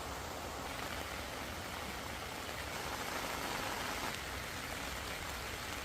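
Steady rain falling: an even hiss of rain with no distinct drops standing out.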